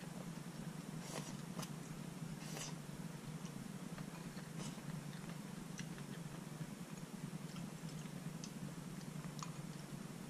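Faint eating sounds: a few soft chewing and mouth clicks, clearest in the first three seconds, over a steady low hum.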